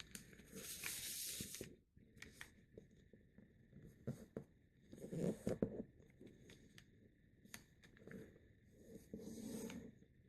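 Sheet of printer paper being handled and folded by hand: several bouts of rustling and sliding, with short crisp creasing sounds between them.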